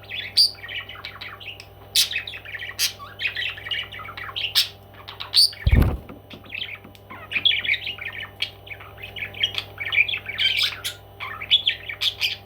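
Parrot chattering and squawking in quick, busy bursts with sharp, piercing calls mixed in. A dull thump about halfway through.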